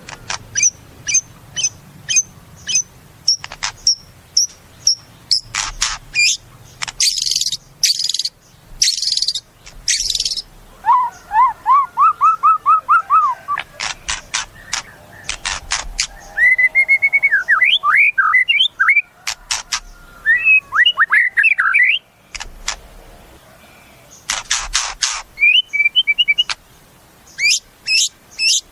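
White-rumped shama (murai batu) singing a long, varied song. It runs through quick rows of high, sharp notes, loud harsh rasping strokes, a fast run of short descending notes, and warbling glides.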